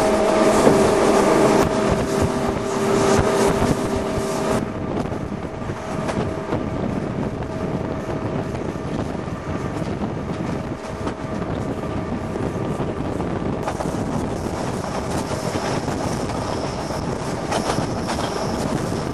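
Passenger train running at speed, heard from an open carriage window, with wind buffeting the microphone. A steady hum of tones breaks off suddenly about four and a half seconds in, and a thin high whine comes in over the last few seconds.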